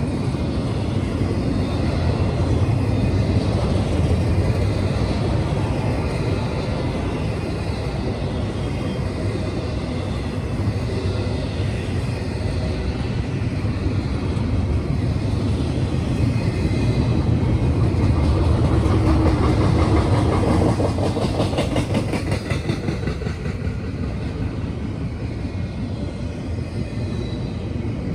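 Double-stack intermodal freight train rolling past: a steady heavy rumble with wheel clatter from the stack cars, swelling a little about two-thirds of the way through.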